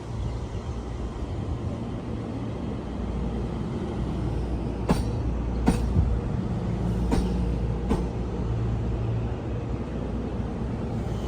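Taiwan Railway train passing close by, a low rumble growing louder as it approaches, with sharp clacks of wheels over rail joints in two quick pairs through the middle.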